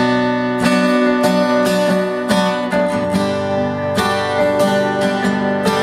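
Acoustic guitar strumming chords: the instrumental opening of a song played live, before the vocals come in.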